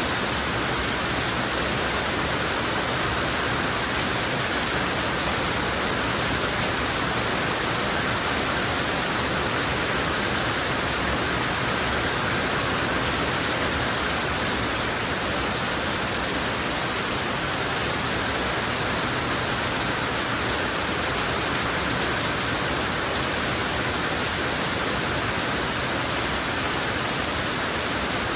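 Heavy rain falling: a steady, even hiss with no single drops, thunder or other events standing out.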